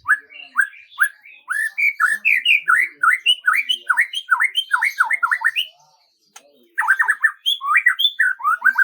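A songbird singing a quick run of short sweeping whistled notes that speeds up, breaks off for about a second past the middle, then starts again in another dense burst.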